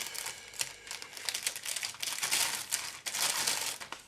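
Plastic packaging crinkling in irregular bursts, with light clicks of plastic kit parts being handled.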